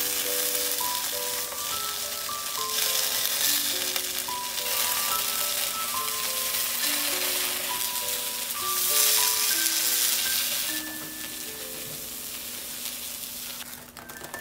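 Tofu slabs sizzling in hot oil as they pan-fry in a black iron pan, turned now and then with wooden chopsticks; the sizzle gets quieter after about eleven seconds. Light background music with a plucked-style melody plays over it.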